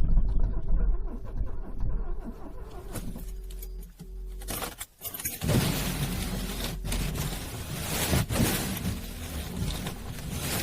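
A car engine being cranked on a cold start, a low, uneven rumble. About five seconds in the sound breaks off briefly and comes back as a louder hissing noise with repeated surges.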